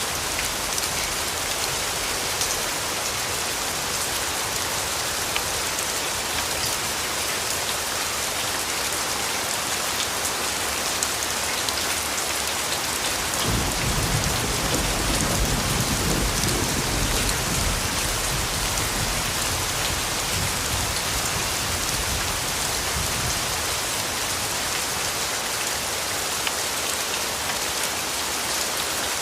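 Steady rain pattering on surfaces. About halfway through, a low rumble of thunder swells for around four seconds and fades back into the rain.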